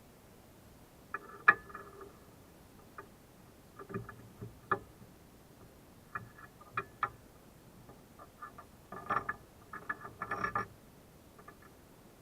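Metal hand tools clicking and clinking as a spark plug wrench and a 12 mm wrench are worked on a Honda Transalp's spark plug: scattered sharp clicks with a short metallic ring. The loudest comes about one and a half seconds in, and a busy run of clicks near the end.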